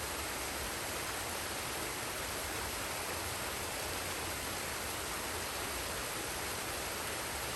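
Steady rush of a forest waterfall and stream, an even hiss of falling and flowing water that does not change.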